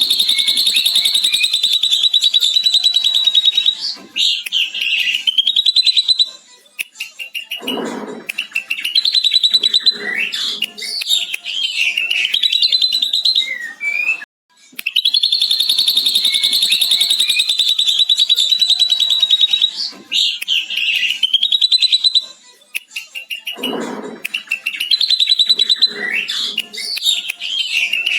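Ashy drongo singing, mimicking a lovebird's long chattering "ngekek": a rapid high trill held for several seconds, followed by varied whistled notes and chatter. The same sequence repeats about halfway through.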